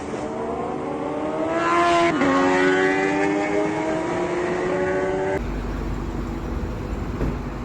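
Vehicle engine accelerating hard, its pitch rising, with an upshift about two seconds in before it pulls again. Near the end this gives way to a low, steady rumble.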